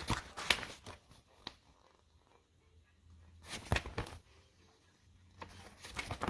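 Handling noise: three short bursts of rustling and clicks, near the start, about halfway through and near the end.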